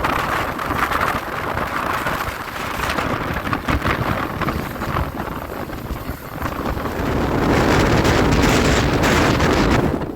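Passenger train in motion: a steady rush of wheel and rail noise, with wind buffeting the microphone, growing louder about seven seconds in.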